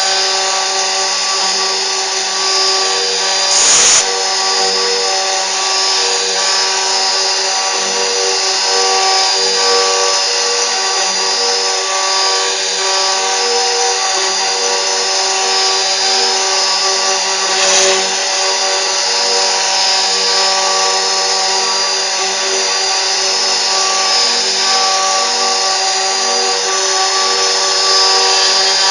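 CNC machine running: a steady mechanical whine made of several held tones over a hiss of machining noise, with two brief louder bursts about four and eighteen seconds in.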